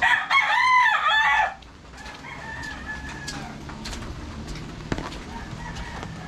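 A rooster crows once, loud, cutting off after about a second and a half, followed by steady rain with scattered drips and a fainter call.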